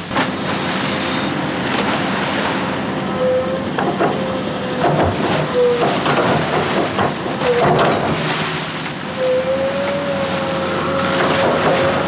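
Concrete mixer truck running during a pour, its engine and drum making a steady din with a wavering whine that comes and goes, a few knocks, and wind buffeting the microphone.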